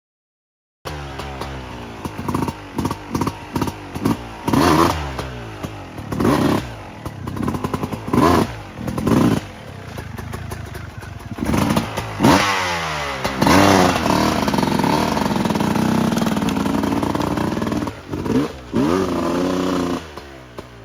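Dirt bike engines revving in a series of short throttle blips, each rising and falling in pitch, with a longer stretch held at higher revs about twelve seconds in.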